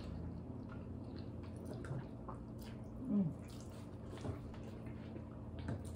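Soft, wet chewing and mouth sounds of someone eating steak, with scattered small clicks and a short hum about three seconds in.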